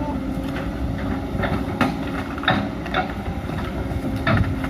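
Hydraulic excavator's diesel engine running steadily, with irregular sharp metallic knocks over it.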